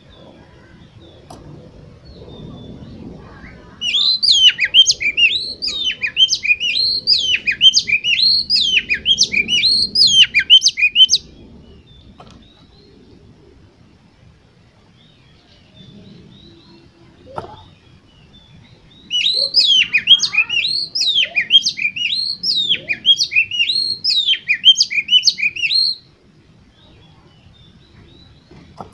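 Oriental magpie-robin singing: two long bouts of rapid, repeated whistled notes, each about seven seconds, with a pause between.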